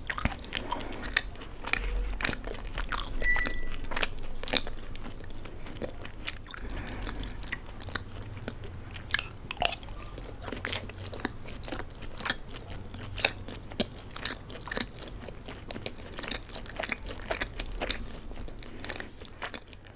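Close-miked chewing of macaroni pasta, with many irregular wet mouth clicks and smacks.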